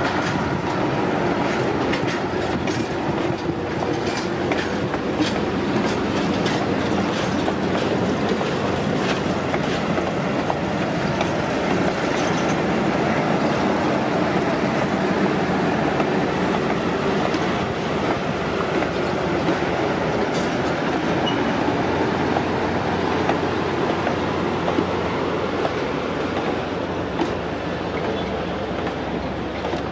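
Passenger train cars rolling past, a steady rumble of steel wheels on rail with repeated clicking over the track, the clicks thickest in the first half.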